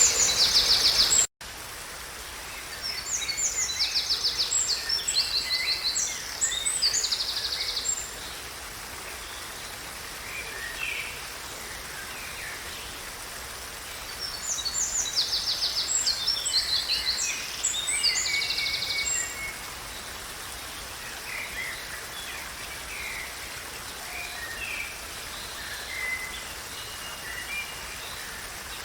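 A songbird singing high, rapid trilling phrases: two long bouts of about five seconds each, with softer scattered calls between them, over a steady background hiss. The sound cuts out completely for an instant about a second in.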